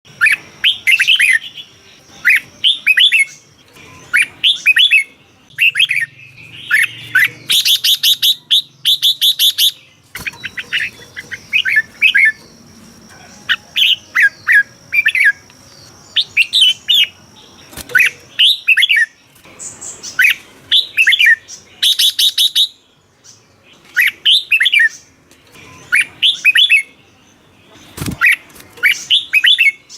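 Red-whiskered bulbul singing, short phrases of quick rising and falling whistled notes repeated every second or two, with a few harsher, buzzier calls in between. A single sharp click sounds near the end.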